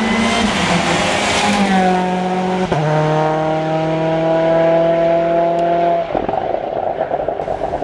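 Hill-climb race car's engine at high revs, accelerating up the course, with quick upshifts that step the pitch down about two seconds in and again near three seconds. The note then climbs slowly in gear and cuts off about six seconds in, leaving a rougher, noisier sound.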